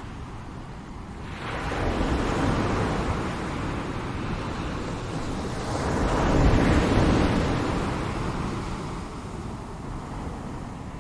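Ocean waves breaking and washing on a shore, two swells of surf in succession, the second the louder, then a softer steady wash.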